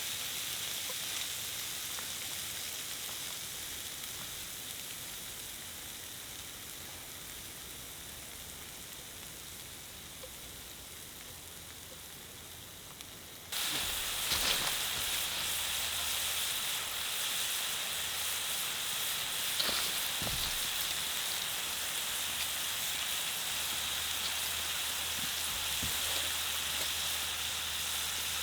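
Steady hiss that fades slowly, then jumps abruptly louder about halfway through and carries on with a few faint ticks.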